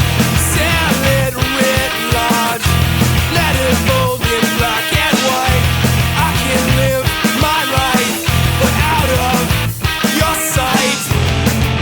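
Loud, dense punk-style rock band music: a recorded song with a full band of guitars, bass and drums playing steadily, the bass notes coming in blocks every couple of seconds.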